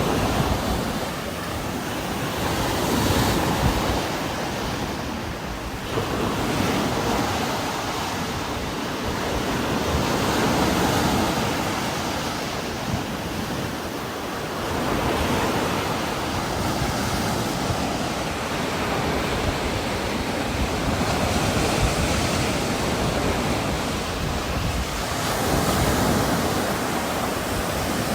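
Heavy rain and strong wind in trees: a dense, steady hiss that swells and eases in gusts every few seconds.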